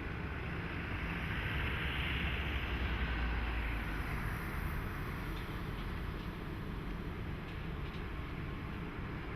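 DE10 diesel locomotive running past with a low engine rumble and a rush of noise that swells about two to three seconds in, then slowly fades. Wind noise on the microphone.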